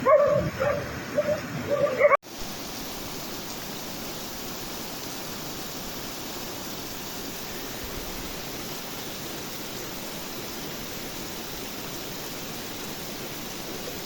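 Heavy rain falling in a steady, even hiss. In the first two seconds a dog yelps and barks over it, before an abrupt cut.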